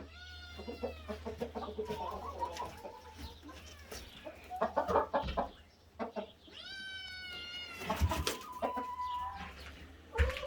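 Hens clucking, with a kitten meowing among them: two long falling cries, one at the start and one about two-thirds through, short choppy clucks between them, and a few sharp knocks around the middle and near the end.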